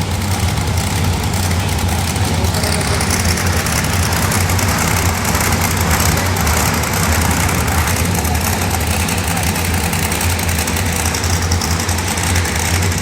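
A heavy engine idling steadily, with a deep, constant low hum.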